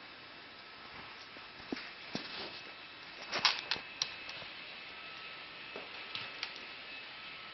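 A string of light, sharp clicks and taps over a faint steady background, the loudest few close together about three and a half seconds in.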